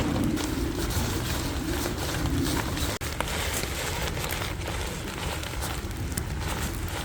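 Rain pattering steadily on tent fabric, a dense hiss of many small drop taps. A low rumble sits under it for the first few seconds and stops shortly before the sound briefly cuts out.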